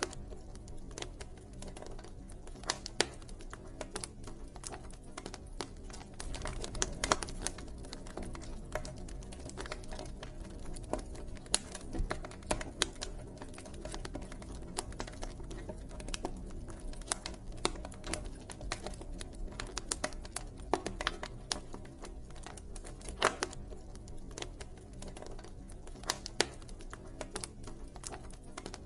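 Wood fire crackling, with sharp irregular pops and snaps over a steady low rumble of burning.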